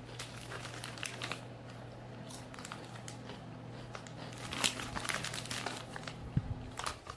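Plastic-foil Lay's crisp packet crinkling and rustling in irregular bursts as a hand reaches in and handles it, over a steady low hum.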